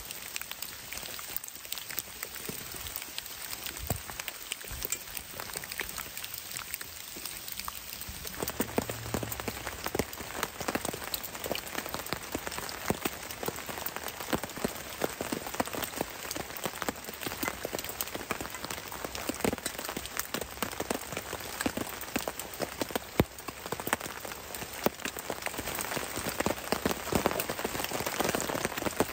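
Steady rain pattering on a tarp shelter, a dense patter of many drops that grows louder and fuller about eight seconds in.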